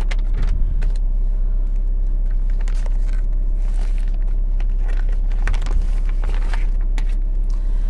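Nissan Sunny's 1.3-litre engine idling steadily, with the air conditioning running.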